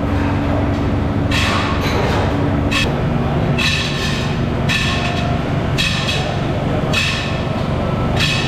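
Repeated metal-on-metal strikes, roughly one a second, each ringing briefly, over a steady hum of workshop machinery.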